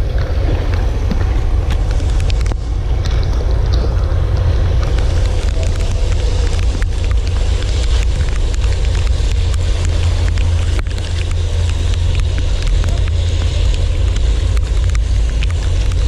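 Strong wind buffeting the microphone, a loud steady low rumble with a hiss above it, over the wash of a rough sea.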